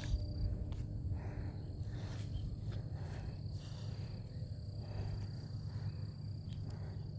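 Outdoor ambience: a faint, steady high insect trill over a low rumble, with a few light clicks.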